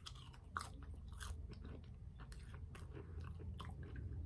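A person biting into and chewing a french fry close to the microphone, with irregular soft wet mouth clicks.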